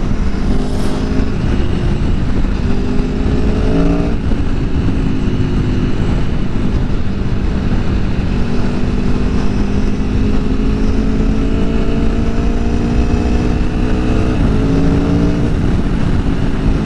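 Aprilia Tuono V4 Factory's V4 engine on the stock exhaust pulling under way, with wind rushing over the rider's microphone. The engine note steps through a gear change about four seconds in, climbs slowly and evenly for about ten seconds, then changes again near the end.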